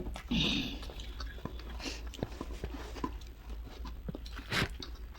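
Close-up chewing and crunching of chatpate, a spicy Nepali puffed-rice snack, heard as scattered small crunchy clicks of mouth sounds, with a sharper crunch near the end.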